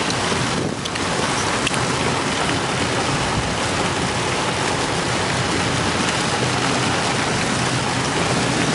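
Heavy rain pouring onto a moving car, heard from inside the cabin as a steady hiss mixed with road and tyre noise.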